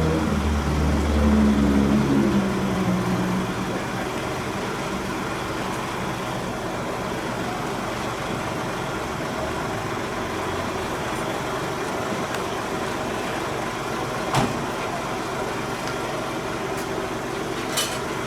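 A truck engine runs loudly, its note dropping and fading over the first few seconds. Then a steady hum of outdoor noise continues, with a brief sharp knock about two-thirds of the way through and another near the end.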